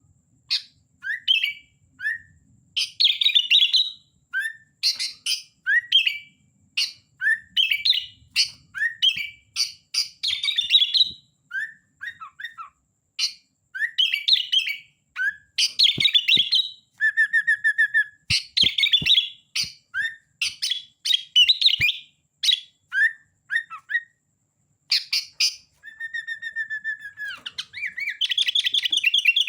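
Sooty-headed bulbul (kutilang) singing continuously in quick chattering phrases of short rising notes. It breaks into a longer steady whistle about midway and again near the end.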